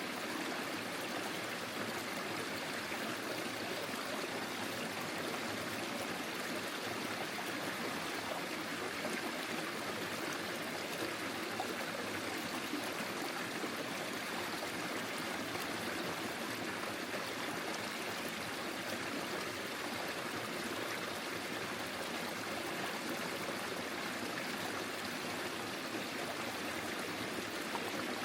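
Forest stream flowing over stones, a steady rushing and trickling of water.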